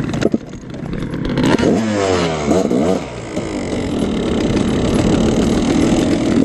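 Two-stroke dirt bike engine being ridden: lower and quieter at first, then blipped through several quick rises and falls in revs from about a second and a half in, then held at steadier revs.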